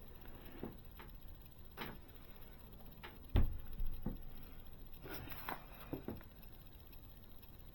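Small clicks and knocks of scale-model motorcycle parts being handled and fitted together, with one heavier knock about three and a half seconds in.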